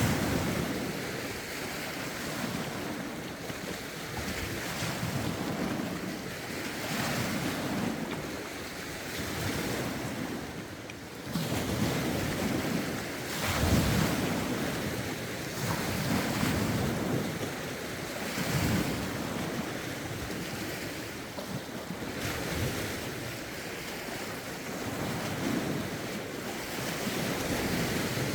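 Lake waves breaking and washing ashore in irregular swells every couple of seconds, with gusty wind buffeting the microphone.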